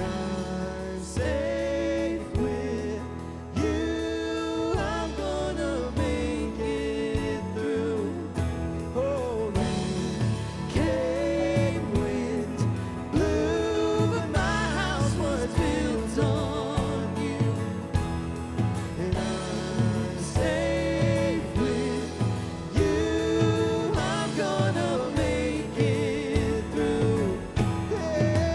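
Live worship band playing a contemporary Christian song, with sung vocals over the band.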